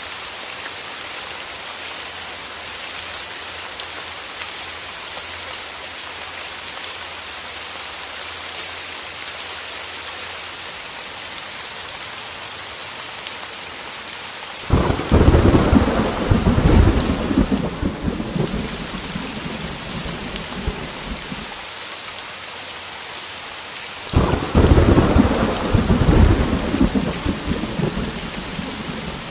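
Heavy rain pattering steadily on a window. About halfway through, thunder breaks suddenly and rumbles away over several seconds, and a second peal follows about nine seconds later; the thunder is the loudest sound.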